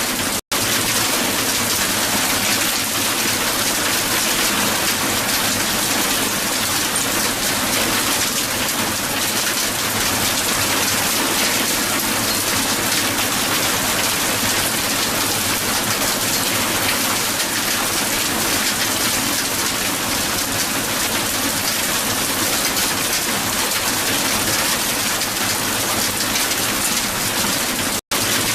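Heavy hail falling on the ground: a dense, steady patter of many small impacts. It cuts out for an instant just after the start and again near the end.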